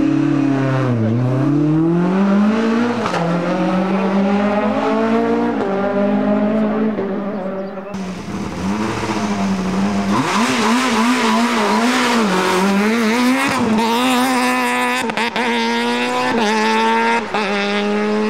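Rally car engines revving hard through the gears, the pitch climbing and dropping back at each gear change. About eight seconds in the sound cuts abruptly to revs rising and falling quickly over a hissing noise, then climbing steadily again near the end.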